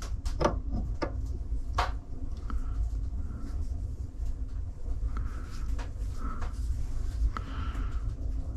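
A few sharp clicks and knocks in the first two seconds, like small objects being handled, over a steady low hum.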